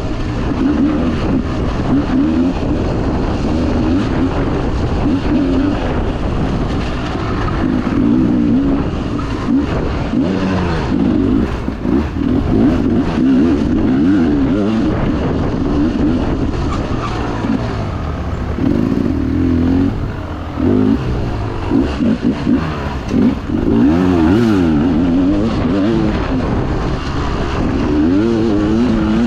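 Dirt bike engine being ridden hard on a rough track, its pitch rising and falling constantly as the throttle is worked, with a few quick throttle chops past the middle.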